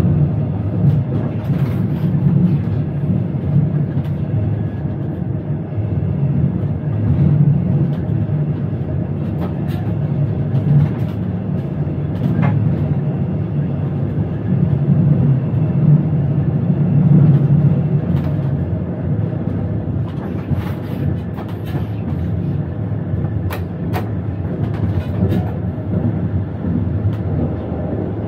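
Running noise in the driver's cab of an electric passenger train moving at speed: a steady low rumble of wheels on rail, with a few sharp clicks and knocks scattered through it.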